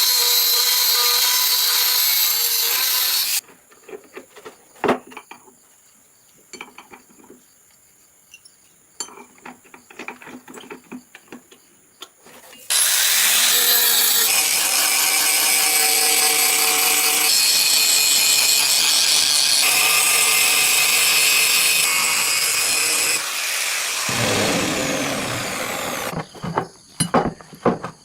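A power tool working on steel in two long steady runs, with a quieter stretch of scattered small knocks and clicks between them and again near the end.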